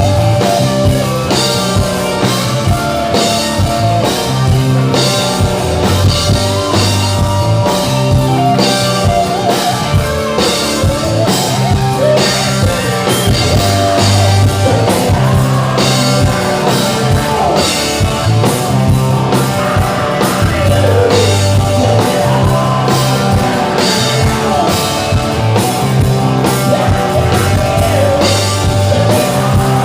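Live rock band playing hard rock: drum kit, electric guitar and bass under a singing voice, with a repeating bass riff.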